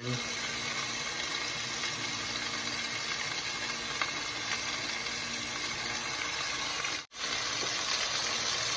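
Chicken breasts sizzling in a nonstick frying pan, a steady hiss that drops out for a moment about seven seconds in.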